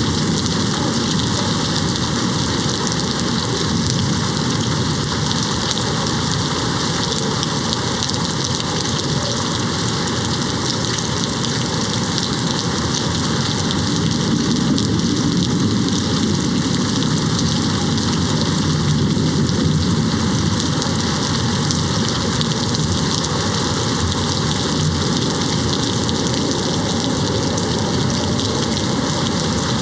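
Steady rain hitting a window. A low rumble swells and fades in the middle.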